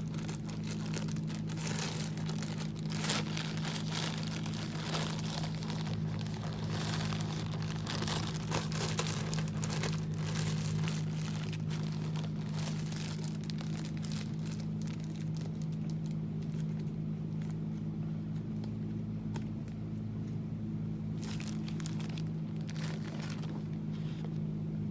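Plastic bread bag crinkling and rustling as it is handled and opened, busiest in the first half and again near the end, over a steady low hum.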